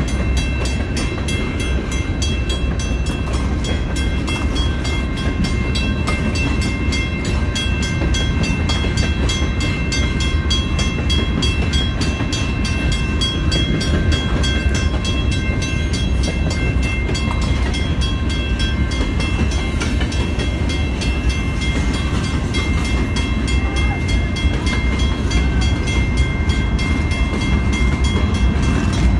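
A train running by: a steady, heavy low rumble with faint thin high-pitched tones ringing above it.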